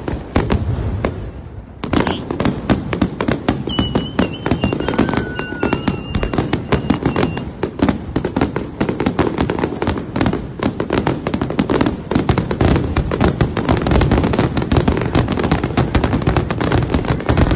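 Fireworks crackling in a dense, rapid run of sharp cracks, several a second, getting thicker and louder about two seconds in.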